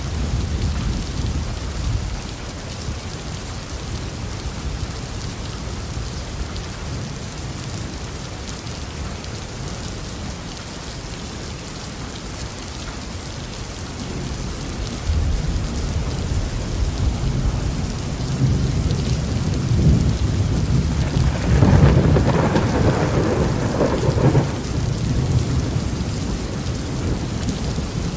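Steady heavy rain with rolling thunder: a low rumble dies away at the start, then a second peal builds from about halfway, is loudest a few seconds before the end and slowly fades.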